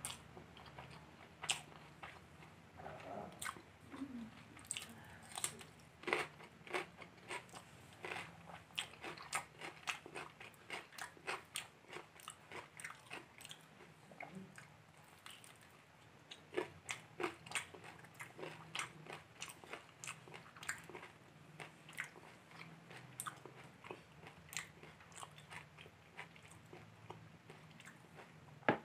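Close-miked chewing and biting by a person eating biryani and a breaded meat chop by hand: many quick wet mouth clicks with some crunching bites.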